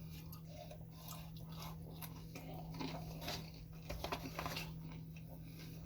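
Close-miked chewing and small wet mouth clicks of a person eating a fried chicken sandwich, over a steady low hum.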